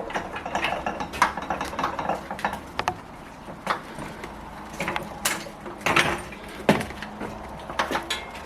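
A homemade portable band sawmill being handled and moved: irregular metal rattling, clinking and knocks from its frame and parts, with several sharp knocks.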